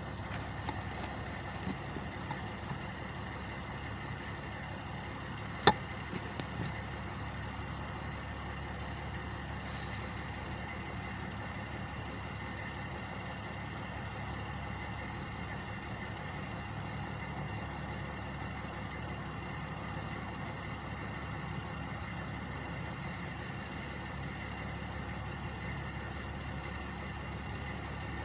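Truck engines idling steadily. A single sharp click about six seconds in, and a few brief hisses around ten seconds.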